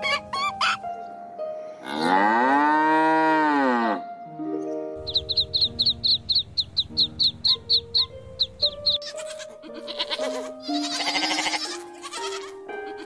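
A string of farm animal calls over light background music: a long drawn-out call rising and falling in pitch about two seconds in, then hens clucking in a fast run of short calls, then a goat bleating with a wavering, trembling voice near the end.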